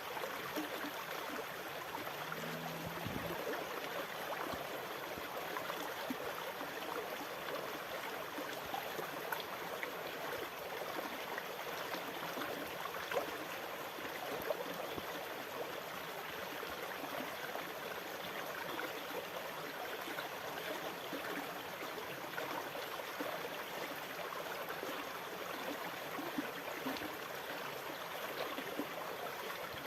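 Moving water running steadily, with fine gurgling and trickling and an even level throughout.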